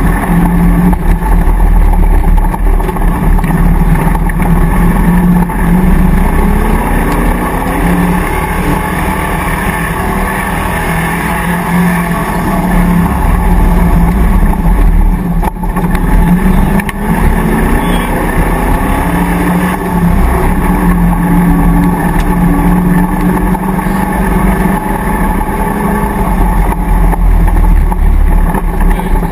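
Land Rover safari racer's V8 engine running hard off-road, its revs falling and rising again several times as it is driven along a rough field track.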